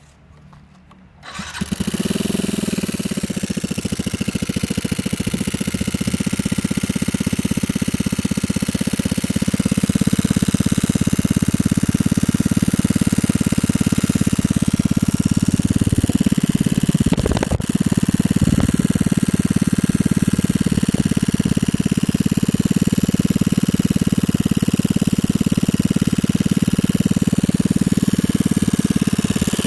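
Yamaha Jog ZR scooter engine starting about a second in, then idling steadily. A brief blip of the throttle comes past the middle, then it settles back to idle.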